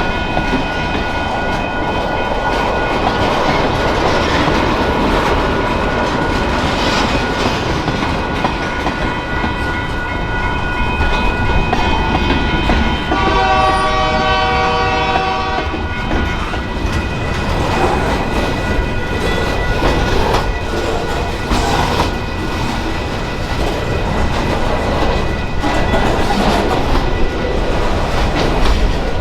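Union Pacific transfer freight train rolling past, a steady rumble with wheels clattering over the rail joints. About halfway through, a train horn sounds once, held for about three seconds.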